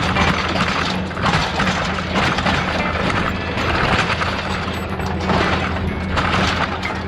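Large four-wheel-drive tractor's engine running steadily under load, a constant low drone, with irregular surges of rattling noise over it.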